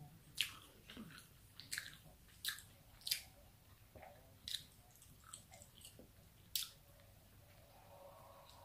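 Close-miked chewing of a mouthful of food, with wet mouth smacks and clicks coming irregularly every half second to a second.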